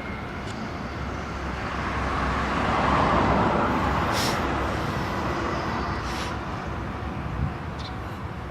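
Train passing on the track: Tokyo Metro 13000 series cars being towed on a delivery run. The rolling noise swells to a peak about three seconds in and then fades away, with a few sharp clicks along the way.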